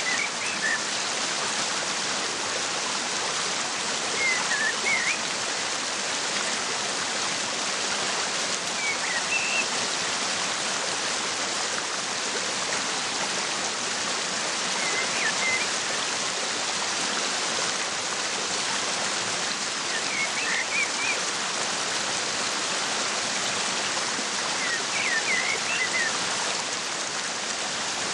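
Waterfall rushing steadily, with a bird giving a short burst of high chirps about every five seconds.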